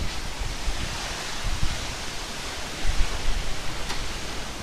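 Heavy rain pouring down in strong wind: a steady hiss of rain, with gusts buffeting the microphone a few times.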